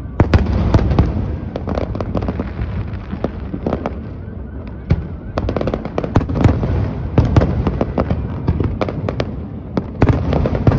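Fireworks show: a rapid, irregular series of bangs and crackling cracks from aerial shells bursting, over a continuous low rumble of booms.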